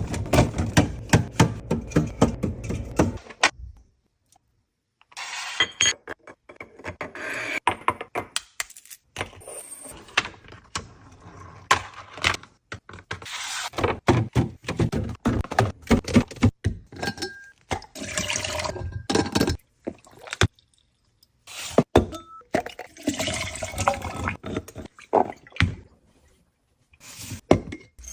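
Restocking a fridge: plastic containers, jars and bottles set down and handled with repeated knocks, clunks and clicks, with stretches of rustling between them and a couple of brief pauses.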